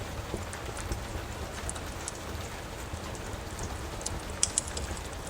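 Steady rain falling, mixed with a fireplace crackling: scattered sharp pops, two close together about four and a half seconds in.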